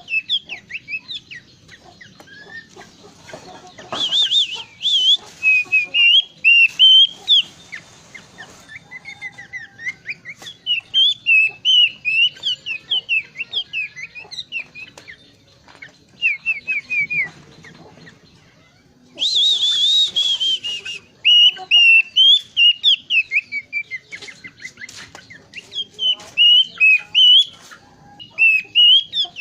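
Horsfield's babbler singing a varied song of quick whistled notes, in phrases with short pauses. Twice a short harsh noise cuts in, about four seconds in and again near the middle.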